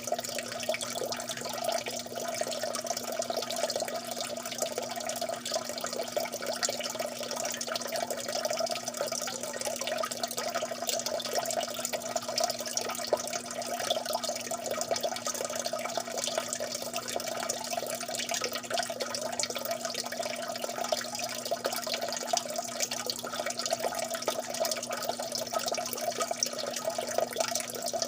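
Water dripping and splashing continuously, a dense, unbroken run of small drops.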